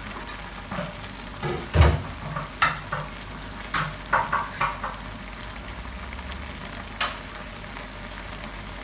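Shredded stingray and vegetables sizzling steadily in a steel wok over a gas burner, with scattered knocks and clicks, the loudest about two seconds in.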